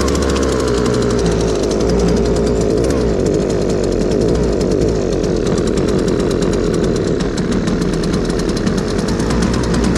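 Husqvarna 326LD string trimmer's two-stroke engine running steadily just after starting, its newly repaired fuel line feeding it.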